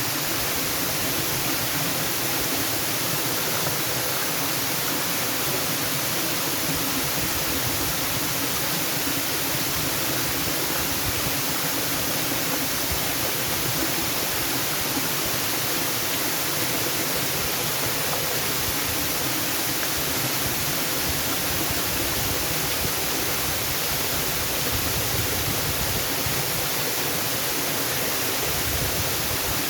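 Waterfall: water pouring in a steady, unbroken rush with no change in level.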